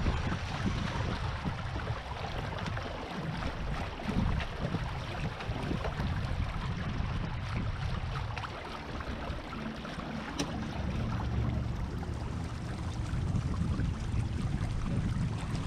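Wind buffeting the microphone in low gusting rumbles, over a steady wash of water aboard a Beneteau First 20 sailboat, with a light click about ten seconds in.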